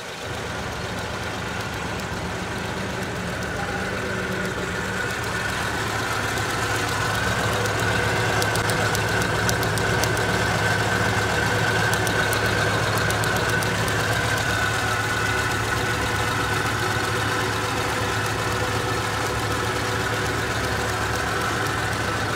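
Suzuki Mehran's three-cylinder petrol engine idling, growing louder over the first eight seconds or so, then steady. The engine is misfiring ('missing'), a fault the workshop puts down to the ignition coil wiring.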